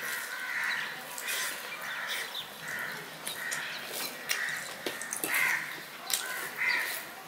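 A bird calling again and again, a little more than once a second, over faint clicks of fingers mixing rice on a steel plate.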